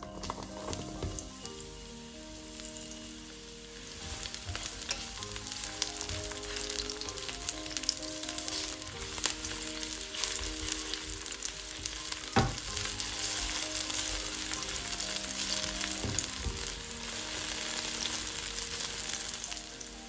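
Sliced onion and garlic sizzling in hot oil in a wok while being stirred with a wooden spatula; the sizzle grows louder about four seconds in. A single sharp knock about twelve seconds in, over soft background music.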